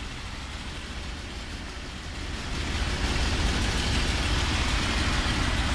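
Mercedes truck's diesel engine running at idle, then picking up and running noticeably louder from about halfway in, holding at the higher level.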